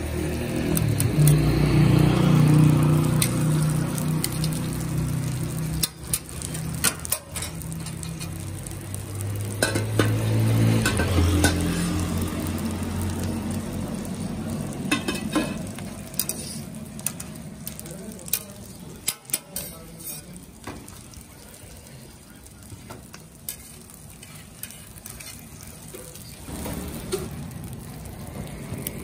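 Aloo parathas sizzling in oil on a flat steel tawa griddle, with metal tongs clicking against the griddle now and then. A low rumble sits underneath, loudest in the first few seconds and again around ten seconds in.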